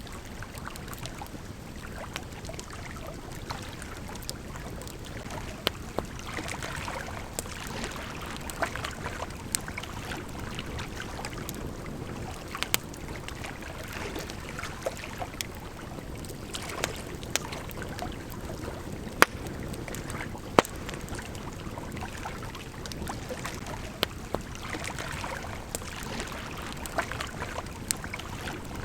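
Wood campfire crackling, with irregular sharp pops and snaps, a few of them loud, over the steady rush of a gently flowing river.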